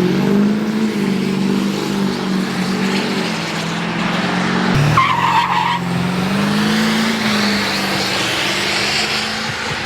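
Truck engine held at high revs in a burnout, with the steady hiss and squeal of spinning tyres. A short, higher squeal cuts in about five seconds in.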